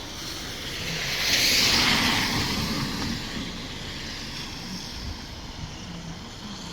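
A vehicle passing by on the road: its tyre and engine noise swells to a peak about a second and a half in, then fades away.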